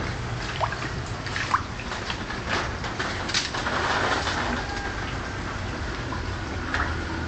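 Floodwater sloshing and splashing, with scattered small splashes and trickles over a steady low rumble.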